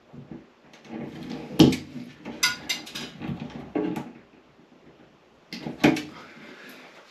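Irregular knocks, clicks and scraping from hands working with wiring and parts during electrical work. The sharpest knocks come about one and a half seconds in and again near six seconds.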